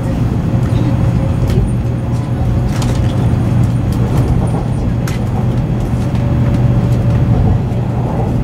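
Shinkansen bullet train running along the track, heard from inside the passenger cabin: a steady low rumble with a constant hum and a few faint clicks.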